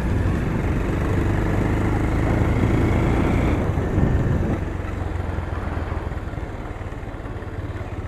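Motorcycle engine running while being ridden, with road and wind noise; it grows quieter after about four and a half seconds.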